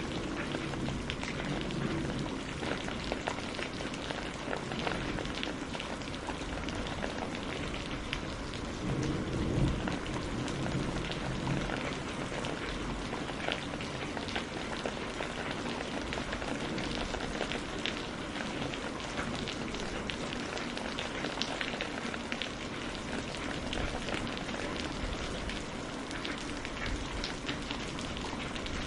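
Steady rain mixed with a crackling wood fire: an even hiss dotted with many small sharp pops and ticks.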